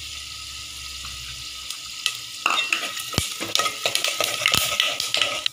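Cashews, raisins and melon seeds sizzling in hot ghee in an aluminium pot. About halfway through, a steel ladle starts stirring them, scraping and clinking against the pot while the sizzling comes in louder spurts.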